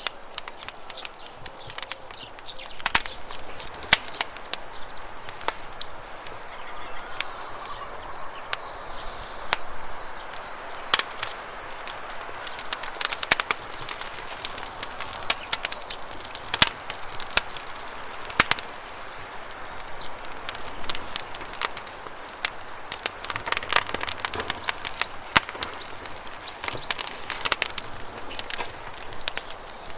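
Campfire crackling, with irregular sharp snaps and pops over the steady rush of flowing river water. A high, rapid bird trill comes in twice near the middle.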